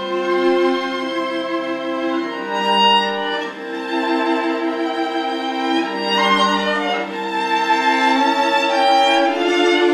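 Violin music: a slow melody of long held notes, often two sounding together.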